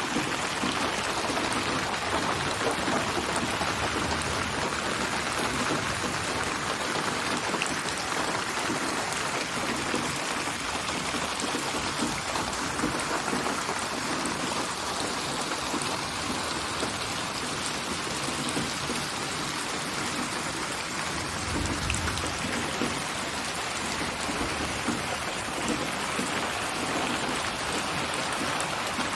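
Steady heavy rainfall, a dense patter of drops on surfaces from a synthesized rain ambience built from many rain recordings and placed around the listener in 8D spatial sound. A brief low rumble comes in about two-thirds of the way through.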